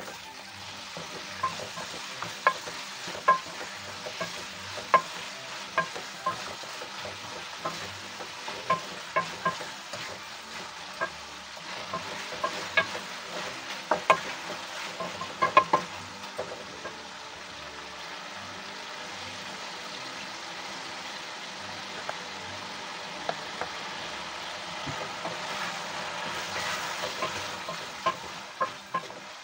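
Chicken pieces frying and sizzling in hot oil with onions in a wok, stirred with a wooden spoon that knocks and scrapes against the pan. The knocks are frequent through the first half, then the sizzle runs on more steadily and swells a little near the end.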